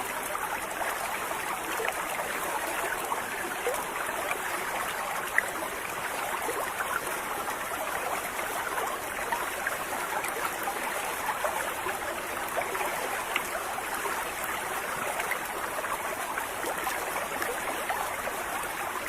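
River water flowing, a steady even rush with no change in level.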